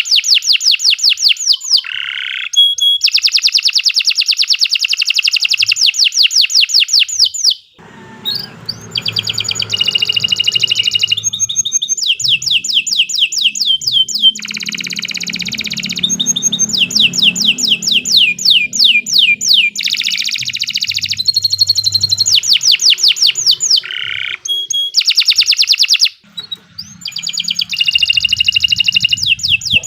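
Domestic canary singing a long, continuous song of rapid, high-pitched trills and rolls. It changes from one trill to the next and breaks off briefly about 8 and 26 seconds in.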